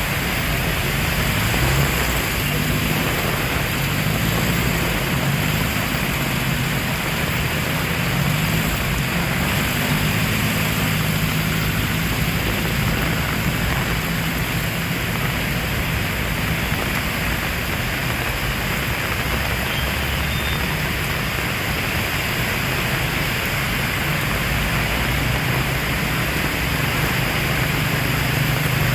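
Heavy rain falling steadily, with a low engine hum underneath that wavers in pitch and grows stronger near the end.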